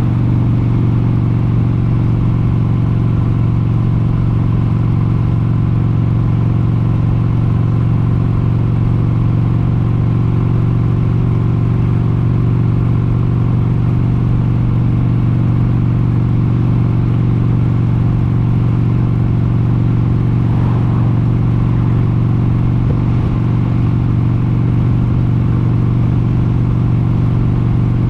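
1996 Harley-Davidson XLH883 Sportster's air-cooled 883 cc Evolution V-twin running under way at a steady cruising speed, its pitch and loudness holding even throughout.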